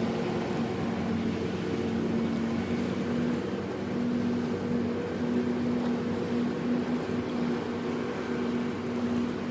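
Dolphin-watching tour boat's engine running with a steady hum, over the wash of sea waves.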